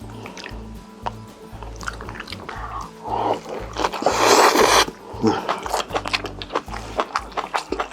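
Close-miked wet chewing and mouth smacking of rice bibimbap and kimchi stew, with many short clicks in an even chewing rhythm. About four seconds in there is a loud, hissy slurp lasting about a second.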